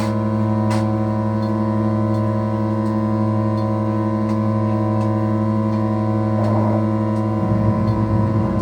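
Modular synthesizer holding a steady drone of several sustained tones, with faint ticks early on. A rougher, noisy layer comes in about six seconds in and spreads into the low end near the end.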